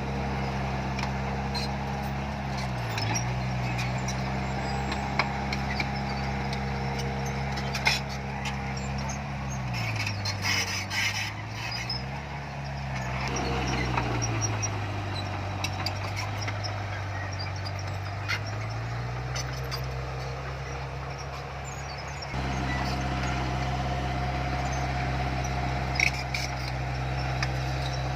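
Heavy diesel engine of earthmoving machinery running steadily, its pitch sagging under load a few times and recovering, with scattered metallic clanks. The sound changes abruptly about two-thirds of the way through.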